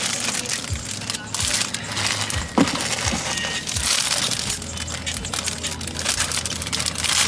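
Plastic or cellophane wrapping crinkling and crunching as it is handled, with a sharp knock about two and a half seconds in.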